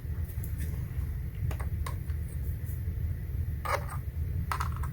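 A few light, separate clicks and taps from small repair tools being handled, over a steady low hum.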